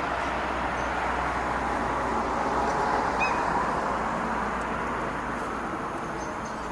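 SL X60 electric commuter train (Alstom Coradia Nordic multiple unit) running through the station, a steady rumble of rolling and motor noise that swells to a peak and then eases off.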